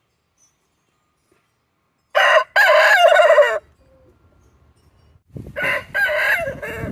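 Rooster crowing: a loud crow starts about two seconds in and lasts about a second and a half. A second, quieter crowing call follows near the end over outdoor background noise.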